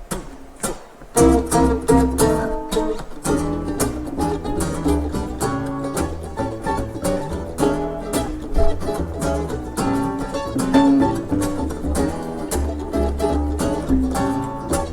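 Acoustic string band trio starting a song, guitar strumming over a deep bass line. The music comes in about a second in, after a couple of sharp clicks.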